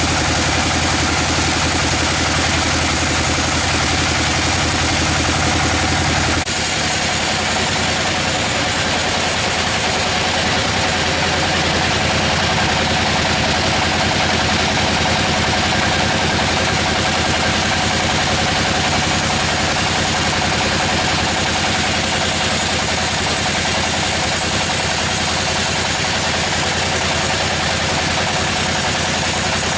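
Sawmill machinery running steadily, a loud continuous engine-like drone. Its sound changes abruptly about six seconds in.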